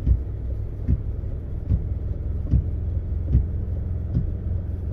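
Ford F-150 pickup driving on a snowy road, heard from inside the cab: a steady low rumble with a regular thump a little more than once a second.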